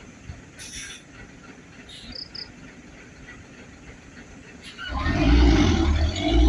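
Low background rumble, then about five seconds in a Hino truck's diesel engine comes in loud, running hard under load on a steep, slippery climb.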